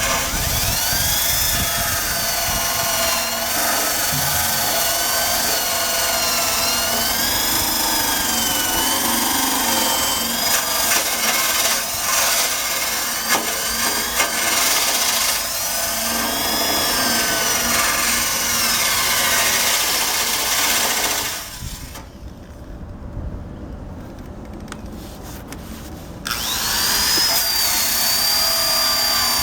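Electric drill spinning a wire brush against the metal of a motorcycle's undercarriage, scrubbing off rust; the motor's whine rises and falls as the brush is pressed in and eased off. It stops about 21 seconds in and starts again some five seconds later.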